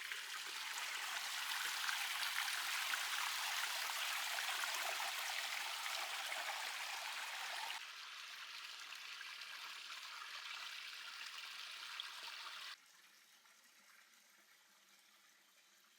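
Stream water running and splashing over a small cascade, a steady hiss. The level drops suddenly about eight seconds in and again about thirteen seconds in, becoming faint near the end.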